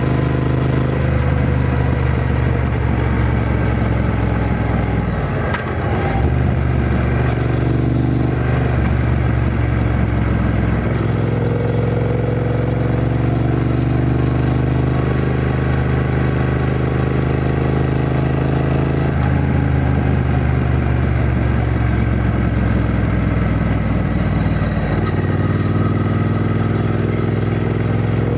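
Triumph Bonneville T120's 1200 cc parallel-twin engine running under way. Its note climbs steadily and drops back suddenly a few times, as with gear changes, with a brief dip about six seconds in.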